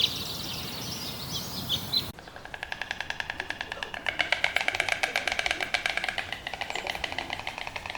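Bird calls: quick, high chirping notes, then an abrupt cut about two seconds in to a long, steady run of rapid, evenly repeated calls, several a second.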